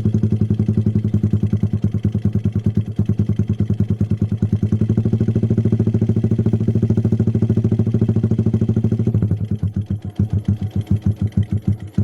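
Motorcycle engine running through a replica JRM racing exhaust, a bassy, evenly pulsing exhaust note at steady idle. About nine seconds in the beat slows and turns uneven as the revs sag.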